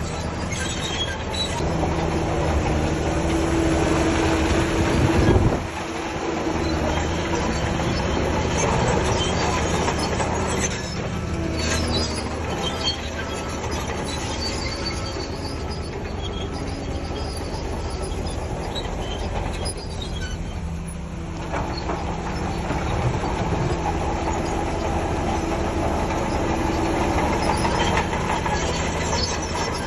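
Heavy diesel earthmoving machinery working, with a steady engine drone. It drops away briefly about five seconds in and eases for a lull around twenty seconds in before building again.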